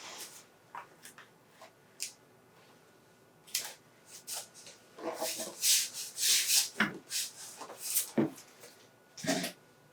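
A heavily taped shipping package being worked open by hand: packing tape pulled and torn and the wrapping rubbed and scraped in short, irregular rips and scrapes, busier in the second half.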